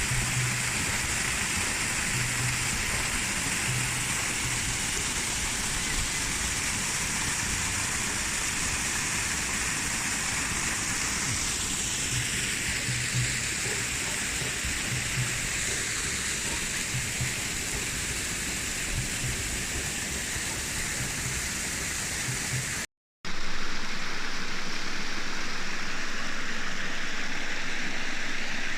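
Waterfall on a river: a steady, even rush of falling water. About 23 seconds in it breaks off for a moment and resumes with less low rumble.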